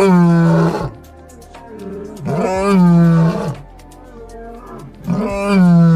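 An animal call, repeated three times about two and a half seconds apart; each call lasts about a second.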